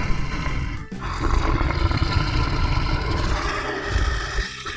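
Lion roaring and growling: a rough, deep sound in two long stretches, with a short break about a second in.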